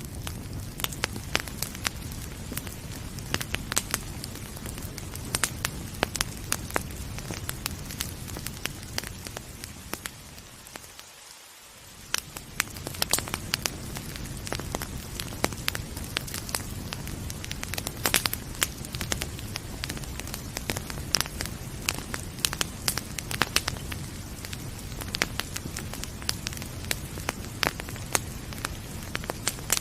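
Wood fire crackling with frequent sharp pops and snaps over a steady hiss of rain. The steady background dips briefly about eleven seconds in, then swells back.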